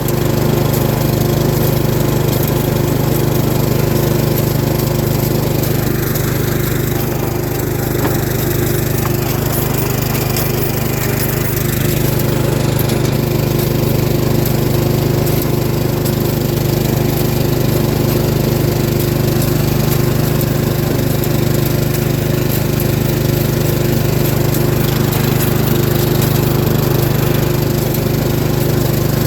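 Small single-engine riding lawn mower running at a steady speed, its low engine note unchanging throughout.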